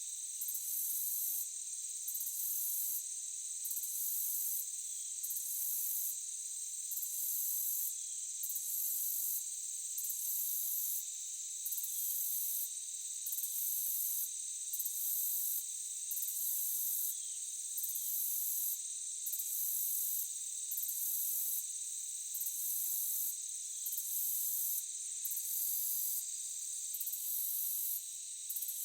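Forest insect chorus: a steady high trill like crickets, with a higher, louder buzz that pulses on and off in a regular rhythm. Faint short falling chirps come now and then.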